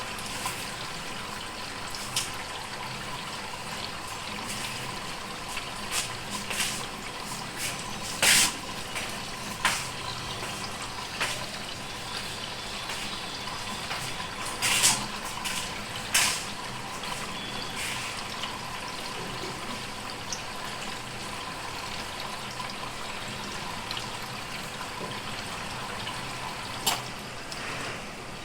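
Washing machine filling with water, a steady rush of water into the tub with several short sharp ticks scattered through it.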